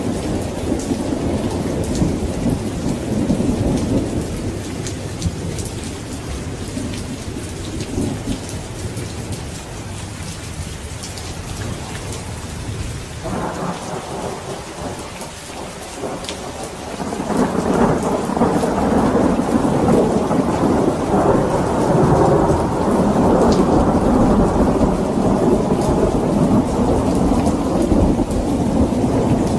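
Steady heavy rain with long, deep rolls of thunder; the rumble dies down in the middle and swells again loud about halfway through, staying strong to the end.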